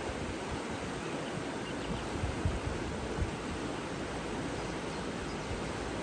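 Running water rushing steadily, with a few brief low thumps about two and a half and three seconds in.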